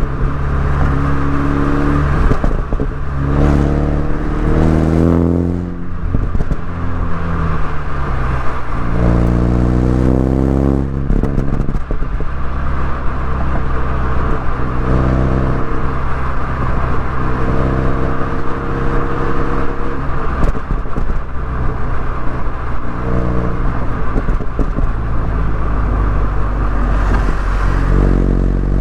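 MINI Cooper S four-cylinder engine and exhaust under way, pulling up in pitch under acceleration, dropping as the throttle eases or the gear changes, then pulling again several times.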